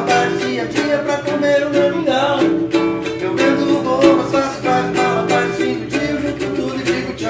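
Acoustic band music: strummed ukulele and guitar playing a steady, bouncy rhythm.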